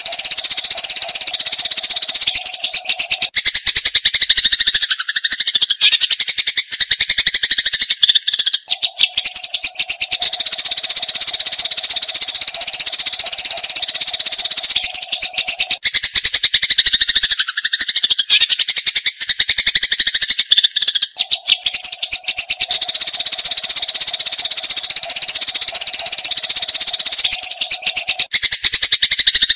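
Eurasian tree sparrows chattering in fast, dense runs of harsh chirps: the agitated calls of sparrows fighting. The pattern repeats in a loop about every twelve seconds, with a low steady tone under it for several seconds at a time.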